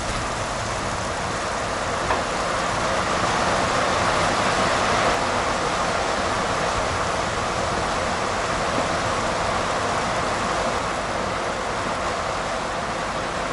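Onions, carrots and freshly added tomatoes frying in a cast-iron pot: a steady sizzle that swells a little a few seconds in, with a few faint crackles.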